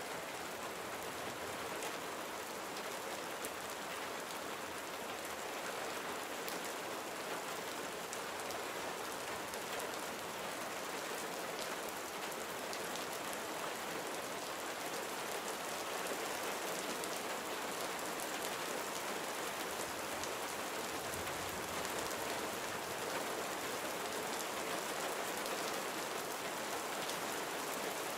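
Gentle rain falling steadily, a soft even patter of many drops on surfaces, with individual drops ticking through it.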